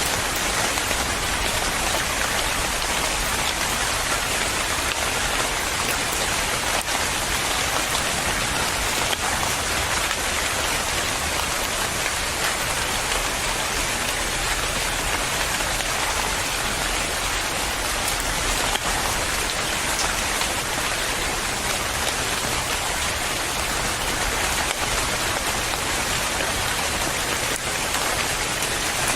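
Steady rain falling, a dense even patter of drops on a surface with no break or change in strength.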